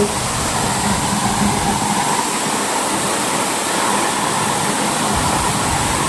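Corn thresher (corn sheller) machine running with a loud, steady mechanical noise.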